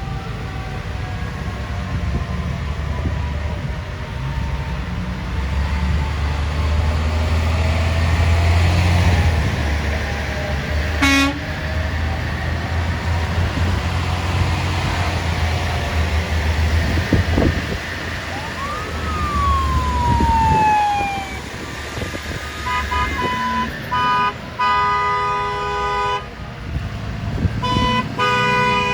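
Parade trucks driving slowly past with a steady low engine rumble; a siren tone sweeps down once about two-thirds of the way through. Near the end, vehicle horns honk in two bursts of repeated blasts.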